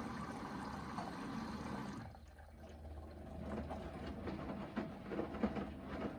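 Hoover VHD 9163 ZI washing machine in its main wash: water running in steadily, which stops about two seconds in. Then the drum turns, with the wet laundry and water sloshing and knocking irregularly.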